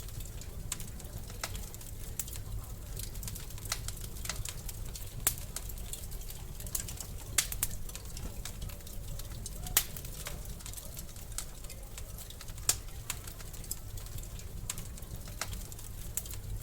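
Wood fire crackling in a fireplace: a steady low rumble of flames with irregular sharp pops and snaps from the burning wood, the loudest about halfway through.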